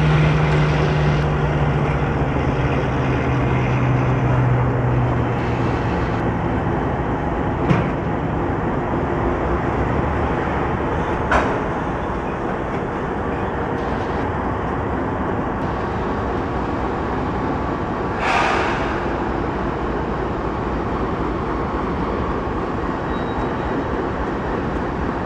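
Freight train of covered hopper cars rolling past: a steady rumble of steel wheels on rail. There is a low hum that fades out in the first few seconds, and a few sharp clanks, three in all, the last a little longer.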